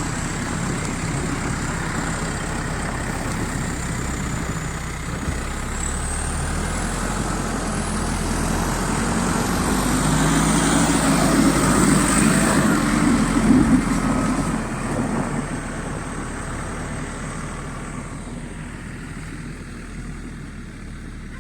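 Heavy diesel vehicle engine running, growing louder toward the middle and then slowly fading, with a thin high whine that rises and falls in pitch over it.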